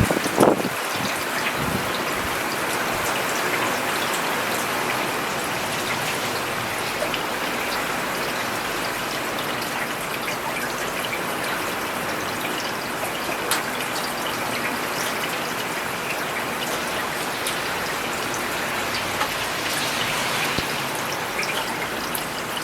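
Steady rain falling on a paved road, an even hiss with scattered individual drops tapping. A brief louder low swell about half a second in.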